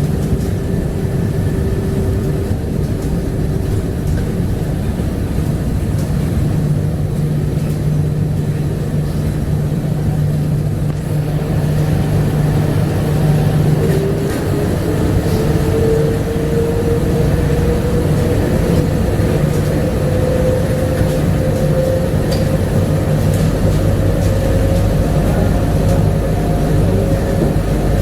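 Bombardier APM100 rubber-tyred light-rail car running along its guideway with a steady rumble. From about halfway through, a motor whine rises slowly in pitch as the train picks up speed.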